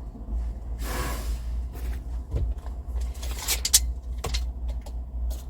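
Handling noises: two brief rustling scrapes and several sharp clicks and knocks, the loudest near the middle, over a steady low hum.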